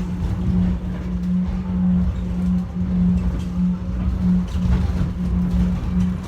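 Airport inter-terminal train running between stations, heard from inside the car: a steady motor hum over a continuous low rumble.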